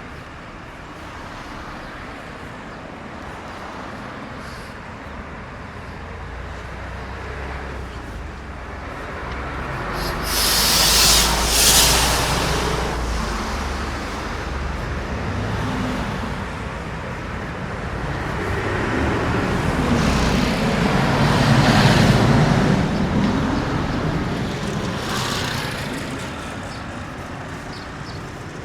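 Road traffic passing on a wet street: tyres hissing on the wet road over a steady traffic din. A vehicle passes about ten seconds in with a sharp hiss, and a heavier one passes around twenty-two seconds in.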